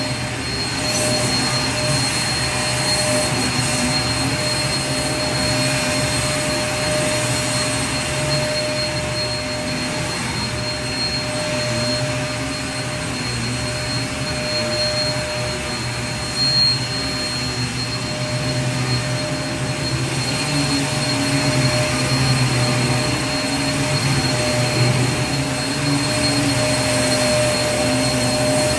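Vacuum cleaner running steadily: a constant motor rush with a steady whine over it.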